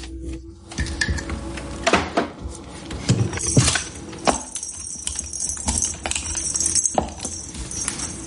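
Irregular knocks and clatters of small hard objects, joined about three and a half seconds in by a steady metallic jingling like keys or small bells being shaken.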